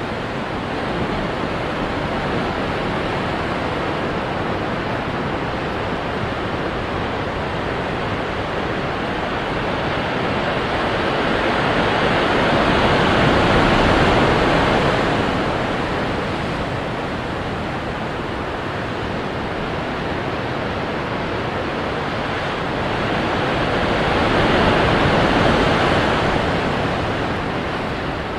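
Ocean waves crashing onto rocks: a continuous rushing wash of surf, with two bigger waves swelling up and breaking, one about halfway through and one near the end.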